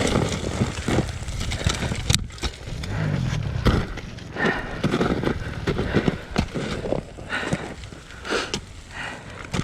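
Footsteps scrambling over rocks and loose dirt on a steep slope: irregular crunches and knocks.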